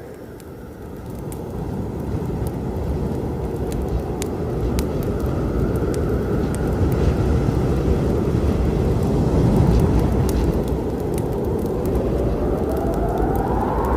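Long low rumble of rolling thunder that swells over the first few seconds, with sparse crackles and pops of a wood fire over it. Near the end a tone rises in pitch.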